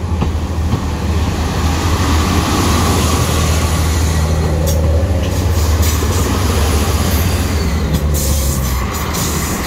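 Northern Ireland Railways diesel multiple unit passing close by: a steady low diesel drone under the rumble of wheels on the rails, with a few sharp clacks near the end.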